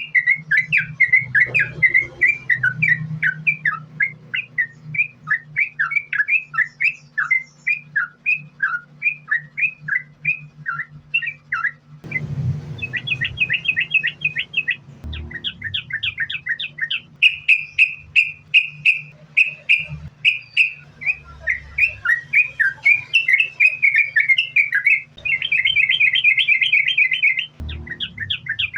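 Yellow-vented bulbul singing in long unbroken runs of rapid, short chattering notes. The song shifts abruptly about twelve seconds in and again near the end. A steady low hum runs underneath.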